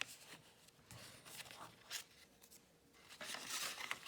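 Cardstock being folded along its score lines and creased with a bone folder: soft papery rustling and scraping strokes, with a short scrape about halfway and a longer rub near the end.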